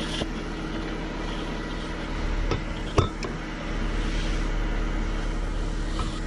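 A few sharp clicks and taps of hand tools and a screw against the plastic steering-column trim, about two and a half and three seconds in and again near the end, over a steady low hum.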